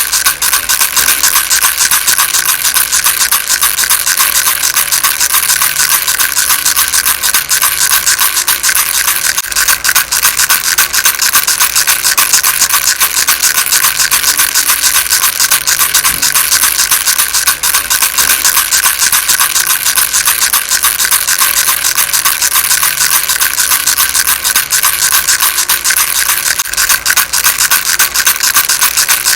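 A baby rattle shaken steadily without a break: a dense, fast clatter of many small clicks.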